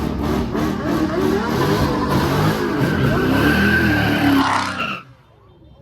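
Car engine revving hard, its pitch rising and falling, with tyres squealing from about two seconds in; it all stops abruptly near the end.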